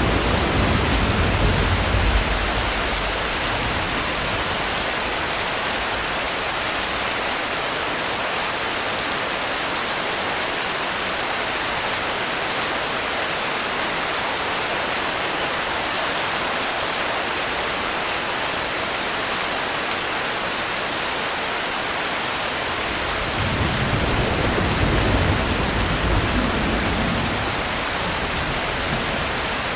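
Steady rain with thunder rumbling low beneath it: one roll dies away in the first two seconds, and another swells about 23 seconds in and lasts some five seconds.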